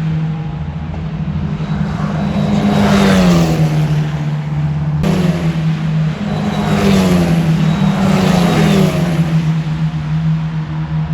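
Formula racing car engines at high revs passing at speed, the pitch dropping as each goes by. Two passes, joined by a sudden cut about five seconds in.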